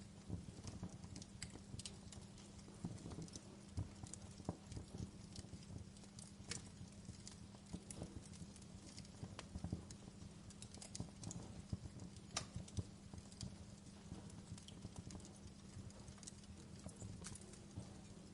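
Wood fire crackling: burning logs give irregular small pops and snaps, a few sharper ones standing out, over a faint steady low hum.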